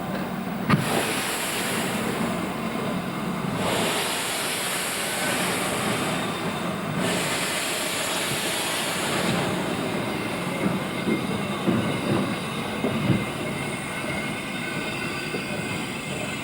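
Steam locomotive working: three long bursts of steam hiss in the first nine seconds or so, over the rumble of the train, with a sharp knock about a second in and irregular clanks and knocks from the wheels and rails later on.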